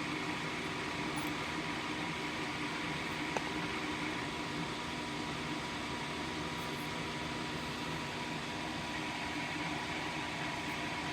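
Steady hum and hiss of room ventilation, with one faint click a little over three seconds in.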